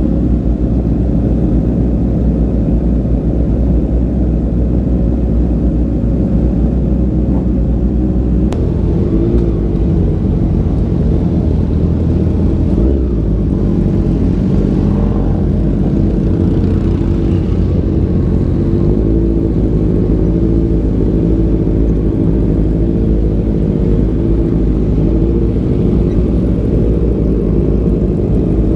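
Motorcycle engine running steadily under way, its note shifting a few times with the throttle.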